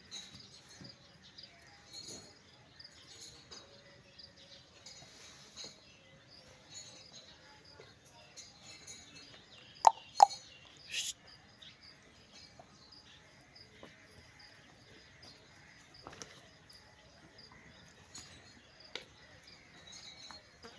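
Faint outdoor ambience of insects and birds chirping. About ten seconds in there are two sharp, loud, very short notes half a second apart, followed by a brief high rising sound.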